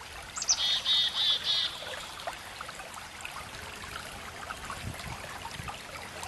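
A bird calls in the first two seconds: a short falling note, then four rapid trilled chirps. After that there is only a faint steady hiss with scattered small ticks.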